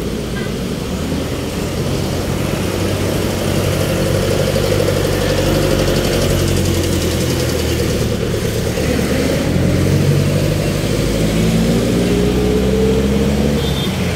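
Road traffic: vehicle engines running close by with a low rumble, one vehicle accelerating over the last few seconds with its engine pitch rising.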